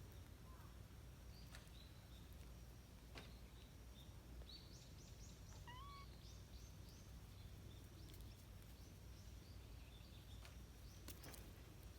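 Faint wild bird chirping over a low outdoor background hum: a quick run of short, high chirps in the middle, with a brief rising call just after, and a few faint clicks near the end.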